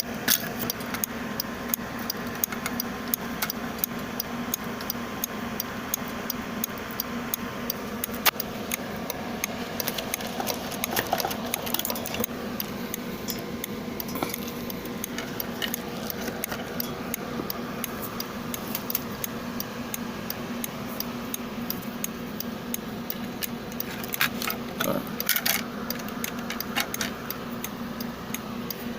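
Small relay clicking on and off over and over above a steady low hum, with now and then the rattle of wires and parts being handled.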